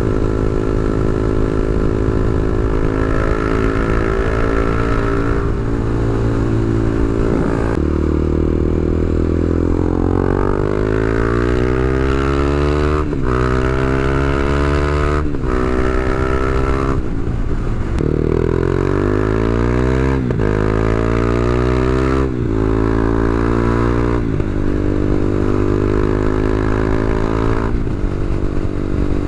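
KTM Duke 390's single-cylinder engine through an Akrapovic exhaust with the dB-killer removed, loud while ridden. It runs steadily for the first several seconds, then accelerates again and again with rising pitch, each pull cut off by a short break at a gear change.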